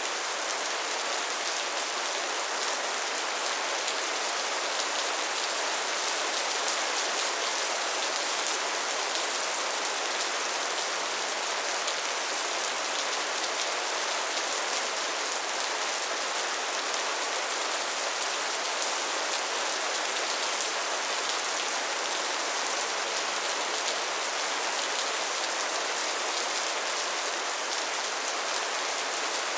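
Steady soft rain falling, a constant even hiss with fine pattering of drops.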